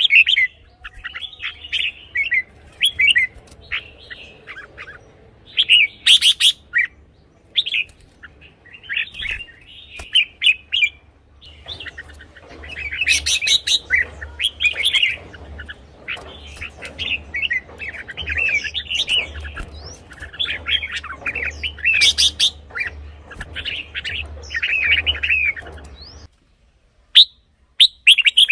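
Red-whiskered bulbuls singing short, bright warbled phrases one after another, with a few sharp clicks and a steady low hum beneath. The sound cuts off abruptly about 26 seconds in, and two short calls follow.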